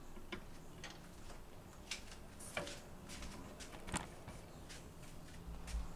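Quiet room with a faint steady low hum, broken by a few scattered soft clicks and light taps, about one every second or so.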